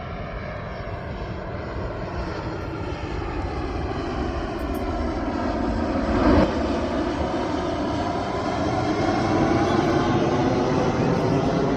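Airplane flying overhead, its engine noise a steady rush that slowly grows louder, with a brief louder burst about six seconds in.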